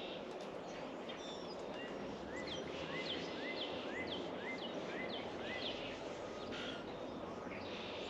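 A songbird at a backyard bird feeder singing a run of about eight repeated whistled notes, roughly two a second, over a steady background hiss.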